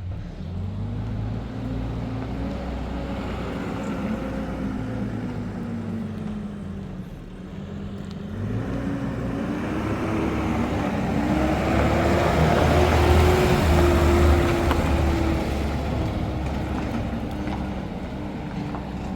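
A motor vehicle's engine running, its pitch rising and falling as it speeds up and slows. The engine and road noise grow loudest about two-thirds of the way in, then ease off.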